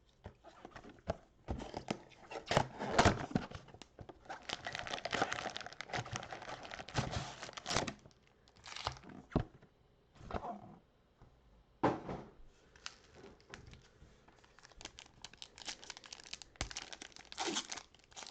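Plastic wrapping on a sports-card mega box and its packs crinkling and tearing as they are opened, in irregular spells with short pauses, the longest and loudest in the first half.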